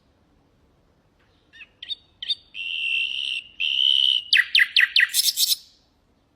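Common nightingale singing one song phrase: a few short high notes, two held whistles, then a fast run of about five downward-sweeping notes ending in a brief buzzy rattle.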